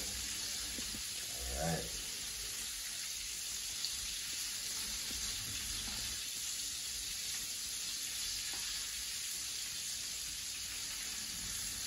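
Coconut-floured crayfish frying in hot oil, a steady sizzle.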